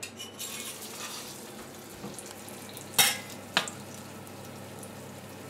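A broccoli-nut patty sizzling in hot rapeseed oil in a stainless steel frying pan as it is laid in. A metal spatula clacks sharply against the pan twice, about three seconds in and again half a second later.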